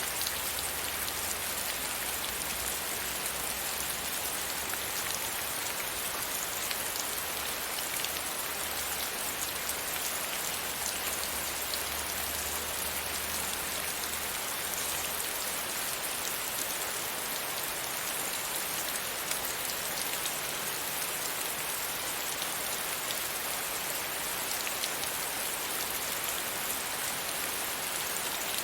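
Steady rain pattering against a windowpane, a dense even hiss of many small drop hits. A low hum underneath stops about halfway through.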